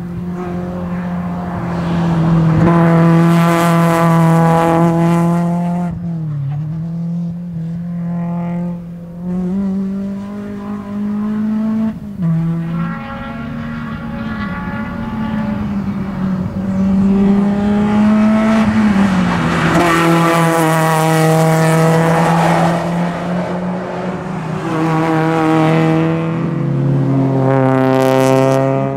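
Engine of a BMW E36 race car running hard on track, held at a fairly steady pitch that drops in steps a few times. It swells loud three times as the car passes close.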